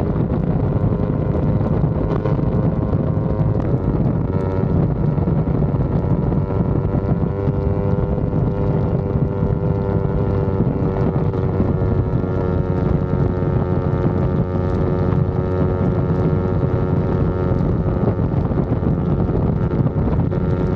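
Yamaha R25's parallel-twin engine running at steady revs under way, with a brief slight dip in pitch about four seconds in. Wind rushes over the microphone.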